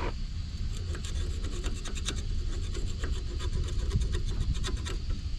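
Repeated, irregular scraping strokes on a Haldex air dryer being cleaned of dirt and brake-clean-softened paint.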